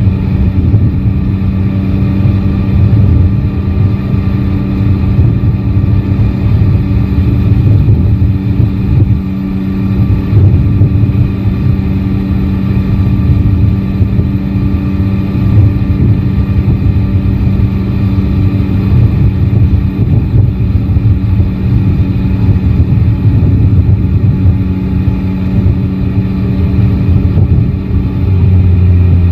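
Yamaha Tracer 9 GT's 890 cc inline three-cylinder engine running at a steady cruise, under heavy, gusting wind rumble on the microphone.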